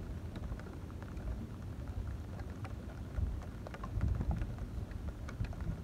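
Rain falling, heard as many scattered drop ticks, over a low rumble of wind on the microphone.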